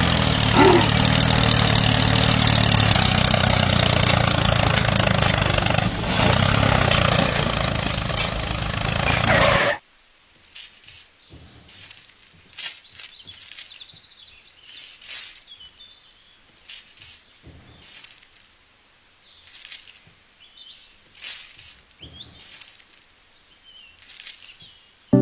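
A small motor runs steadily with a low hum for about ten seconds, then cuts off suddenly. Short bird chirps follow, scattered through the rest.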